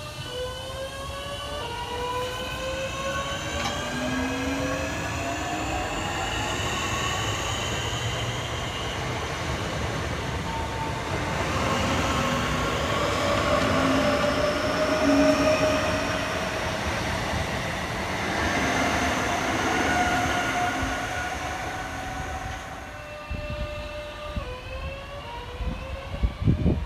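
Electric multiple-unit train moving through the station, its traction motors whining in several tones that climb in pitch over the first few seconds, over wheel and rail rumble. It is loudest midway and fades near the end.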